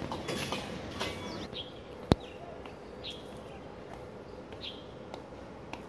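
A bird repeating a short high chirp about every second and a half over steady outdoor background noise. One sharp click about two seconds in is the loudest sound.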